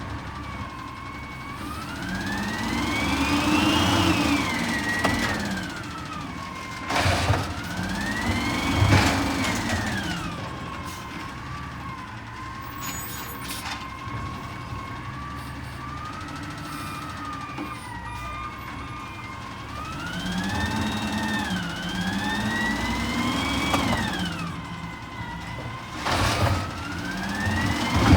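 Peterbilt 320 garbage truck's engine revving up and back down four times, a high whine rising and falling with it, over a steady idle. Two sharp clanks come about seven seconds in and near the end.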